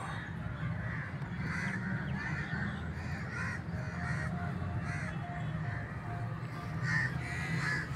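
Birds calling repeatedly, about two harsh calls a second, over a steady low hum.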